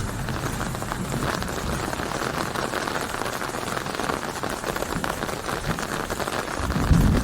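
Steady heavy rain, a dense patter of drops falling on a surface. Near the end a deep low rumble swells in under it.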